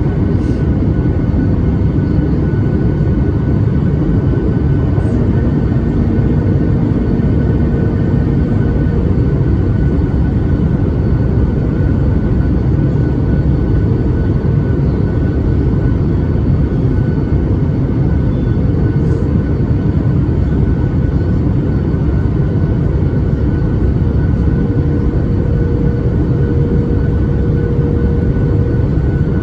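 Steady cabin noise inside a Boeing 737 MAX 8 airliner in flight, heard from a seat over the wing: a deep, even roar of airflow and the CFM LEAP-1B engines, with a faint steady hum on top.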